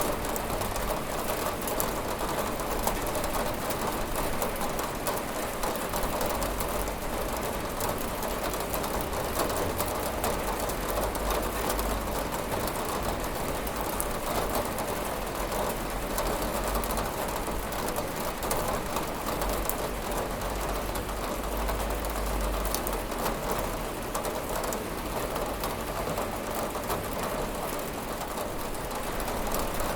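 Steady rain with drops tapping on a window pane, a dense even patter.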